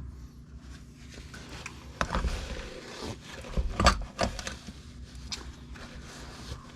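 Metal parts of a Kawasaki Brute Force 650 front differential being handled during teardown: scattered clinks and knocks of metal on metal, the loudest about four seconds in with a short ring.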